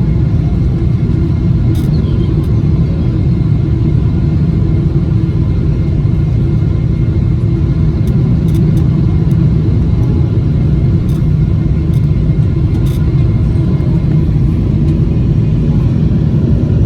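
Steady cabin noise of a Boeing 777-300ER in flight: a loud, even low rumble of its engines and the airflow, with faint steady whining tones above it.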